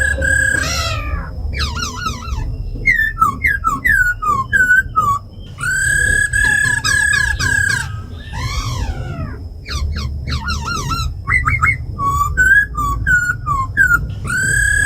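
Laughingthrushes singing: long clear whistled notes held at one pitch, alternating with quick phrases of short sliding notes, with a rougher falling call partway through.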